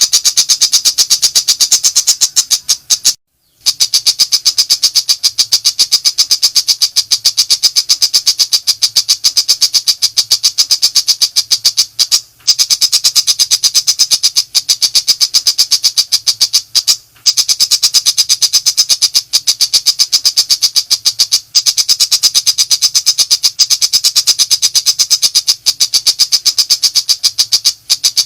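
Long-tailed shrike ('pentet macan') singing in a continuous rapid-fire 'nembak' run: very fast repeated high notes, broken by a few brief pauses.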